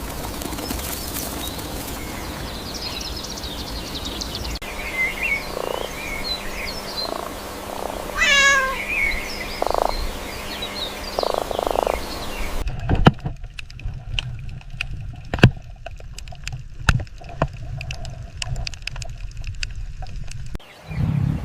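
Short animal calls and chirps, including one quick falling trill, giving way about two-thirds through to a run of sharp clicks and knocks over a low rumble.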